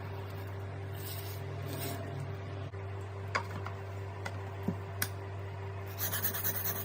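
Dull deba knife being sharpened on a Shapton Kuromaku whetstone: the blade rubs on the stone, with a few light clicks, over a steady low hum. A quicker run of strokes comes near the end.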